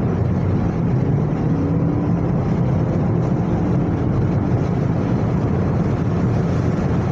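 Steady highway driving noise: a dense low rumble of engine, tyres and wind from vehicles travelling at speed, with no breaks or changes.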